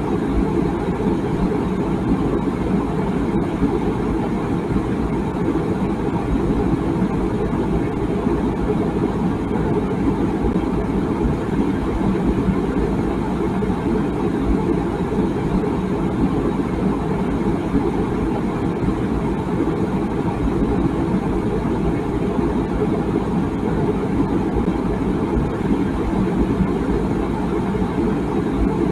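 Water boiling in a tea kettle: a steady, low, churning rumble with no whistle.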